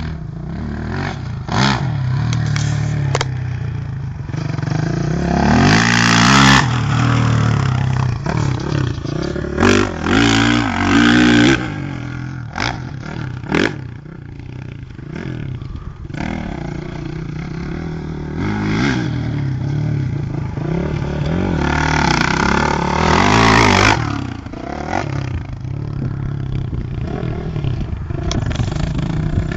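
Motocross bike engines revving hard and easing off over and over as bikes ride the track, pitch climbing and dropping with each throttle change, with the loudest passes about six seconds in, around ten to eleven seconds, and again near twenty-three seconds.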